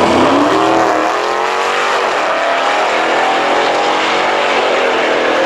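Drag-racing car's engine accelerating hard down the strip. The pitch climbs from the start, breaks at a gear change about two seconds in, then climbs again more slowly.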